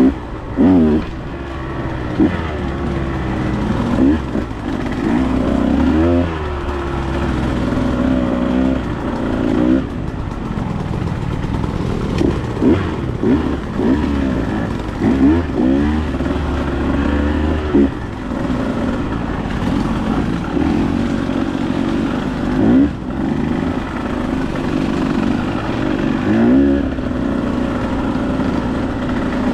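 Dirt bike engine being ridden on a trail, revving up and dropping back again and again as the throttle is worked, with quick rises in pitch every second or two.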